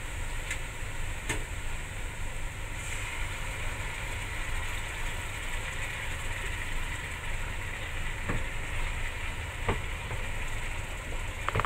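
Ground spice paste of chili, shallot and garlic sizzling steadily in hot oil in a wok, with a few light clicks of a wooden spatula against the pan.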